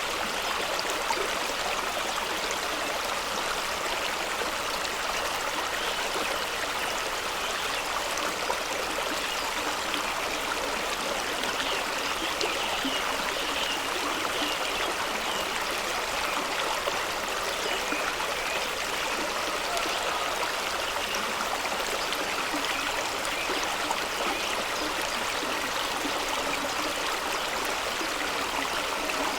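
Fast-running stream and small waterfall rushing and splashing over rocks, a steady unbroken water noise.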